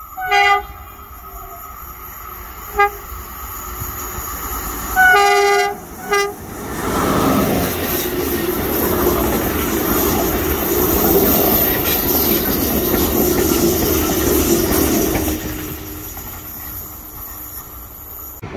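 Passenger train sounding its horn as it approaches: a blast, a short toot, a longer blast and another short toot. The train then passes close by with loud rolling wheel and rail noise, which eases off near the end.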